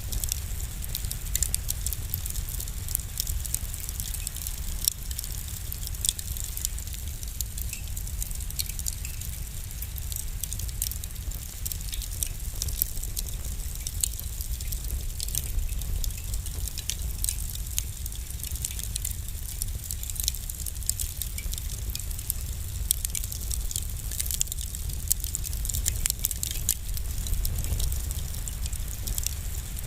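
Wood fire crackling in a fireplace: frequent small, sharp pops at irregular intervals over a steady low rumble of the flames.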